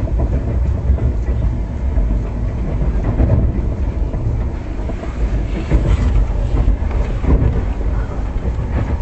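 Indian Railways express train running on the track: a steady low noise of wheels on rails, with scattered faint knocks.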